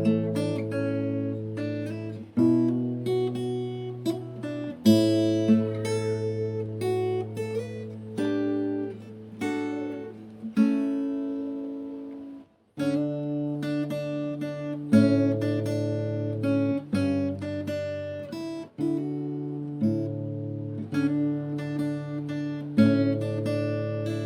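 Background music of acoustic guitar playing plucked and strummed chords. It breaks off briefly about halfway through and then starts again.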